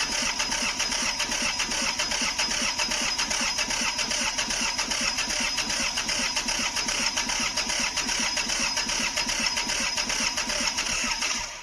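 John Deere 855's three-cylinder diesel being cranked by its electric starter in a long, steady, evenly pulsing churn that cuts off abruptly near the end. The engine does not catch, which the owner suspects is a fuel issue.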